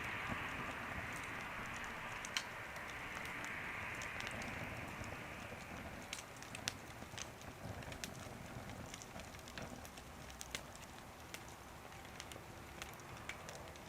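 Wood fire burning in a small wood stove, crackling with scattered sharp pops over a soft hiss; the hiss fades about halfway through, leaving quieter crackles.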